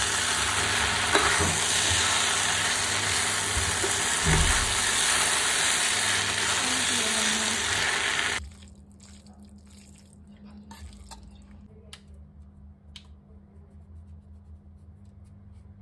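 Hakka noodles and onions sizzling in a hot pan as they are tossed. The sizzle cuts off suddenly about eight seconds in, leaving a quiet stretch with a few faint clicks.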